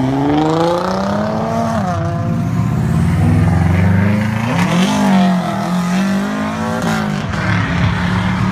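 A car engine revving hard as the car accelerates, its pitch climbing and then dropping back several times.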